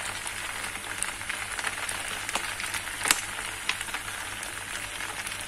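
Rice vermicelli and squid sizzling in a hot wok, just doused with sweet soy sauce: a steady frying hiss. A few sharp clicks of the metal spatula against the wok come through it, the loudest about three seconds in.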